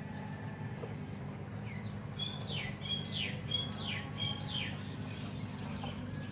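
A bird calls four times in quick succession, each call a short high note dropping into a fast downward sweep, over a steady low hum.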